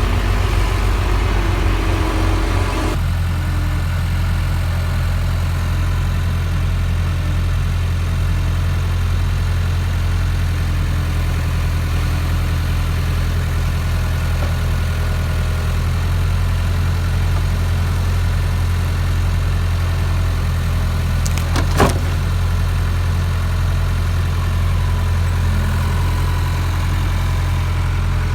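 A heavy engine idling steadily with a low hum; its sound changes about three seconds in. A single sharp knock comes near the end.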